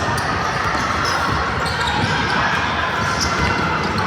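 Basketball game in a gym: a ball bouncing on the hardwood among scattered thuds and brief high squeaks, over a steady hall-wide din of players and spectators echoing in the large room.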